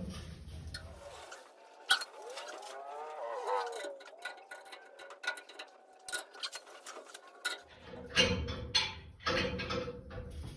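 Metal knocks and clanks from a homemade car-body rotisserie being turned and locked, with a creaking groan, rising and falling in pitch, about three seconds in.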